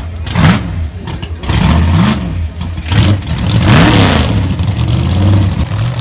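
Drag race car engine revved in a series of quick throttle blips, each rising and falling in pitch about five times, loudest near four seconds in.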